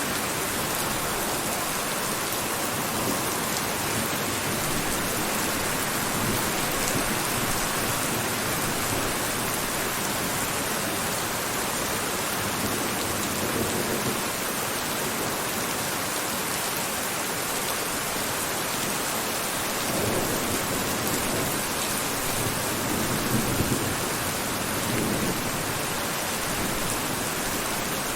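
Steady, heavy rain falling, a dense even hiss, with a few brief swells in the low end around the middle and later on.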